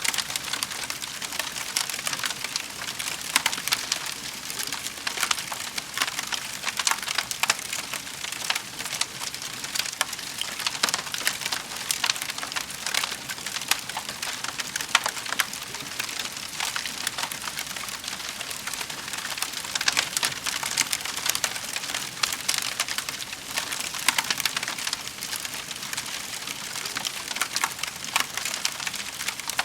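Wood fire crackling in a fireplace: a dense, continuous run of small pops and snaps over a soft hiss.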